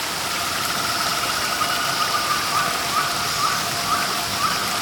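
Waterfall rushing steadily, with a bird calling over it: a quick trill in the first half, then short rising notes repeated about twice a second.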